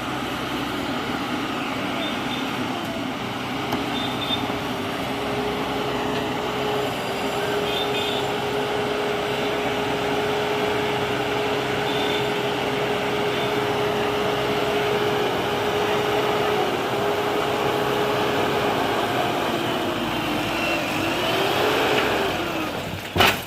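JCB Eco Xpert 4x4 backhoe loader's diesel engine running steadily during ground-leveling work, with a steady whine over it for much of the time. A sharp loud knock comes near the end.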